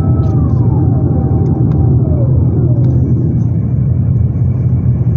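Airbus A350-900 cabin noise: a loud, steady low rumble from its Rolls-Royce Trent XWB engines and the airflow, with a few high whining tones that slide down in pitch over the first three seconds.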